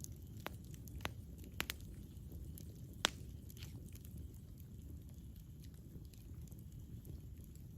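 Campfire burning: a low steady rumble of flames with scattered sharp crackles and pops from the wood, the loudest pop about three seconds in.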